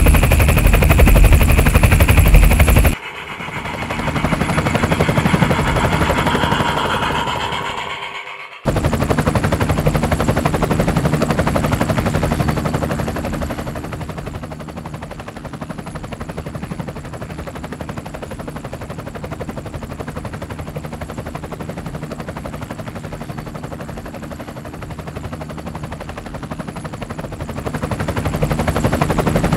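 Micro RC helicopter's rotor and electric motor running, a fast even chopping buzz over a steady hum. About three seconds in it breaks off for several seconds of a different, quieter sound with a rising hum, then comes back, softer in the middle and louder again near the end.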